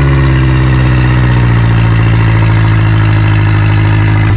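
Off-road 4x4's engine running steadily, its note holding level throughout.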